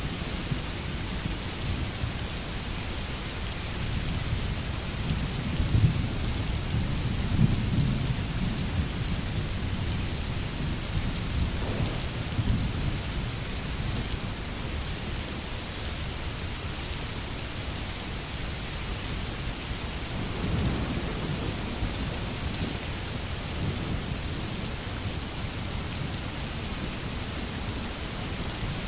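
Steady rain falling, with distant thunder rumbling twice: a long rumble a few seconds in and a shorter one about two-thirds of the way through.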